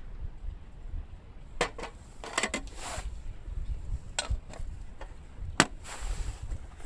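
Camp cookware being handled: a handful of separate sharp clinks and knocks of metal pots and utensils, the loudest a little past halfway, over a steady low rumble of wind on the microphone.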